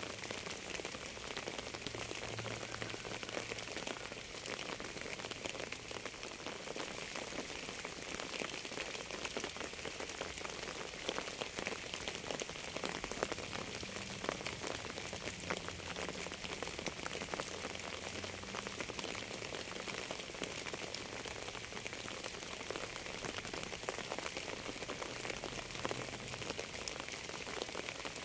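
Steady rain falling, a dense, even patter of many raindrops on a surface.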